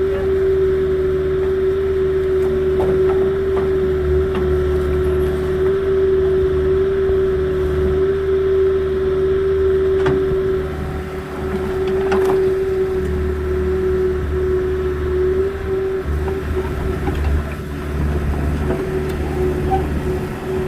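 Small agricultural excavator's diesel engine running steadily, with a constant whine over a low rumble. A couple of short knocks come about halfway through.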